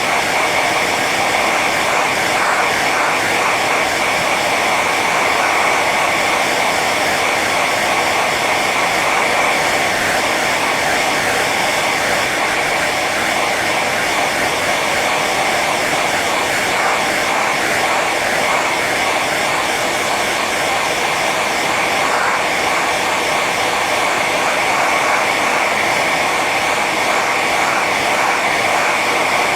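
Hair dryer running on its high setting: a steady rush of blown air with a constant high motor whine.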